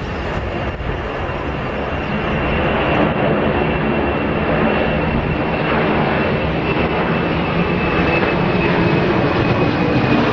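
Jet airliner engines running loud, a dense roar with a thin high whine that sinks slightly in pitch. It grows louder a couple of seconds in, then stops in a sudden cut.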